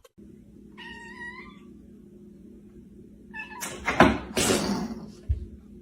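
A cat meowing: one short meow about a second in, then another cry a few seconds later that runs into two loud, breathy, noisy bursts, over a steady low hum.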